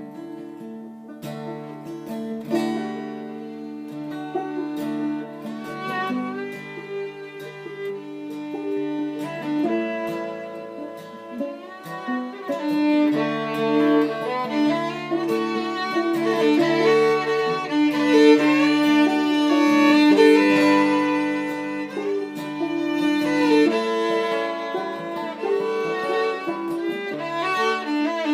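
Instrumental break in an acoustic folk song: a fiddle plays the lead melody in held, sliding notes over acoustic guitar accompaniment.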